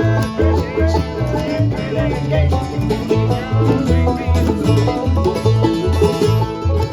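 Bluegrass band playing, busy picked string notes over a steady bass pulse of about two to three notes a second.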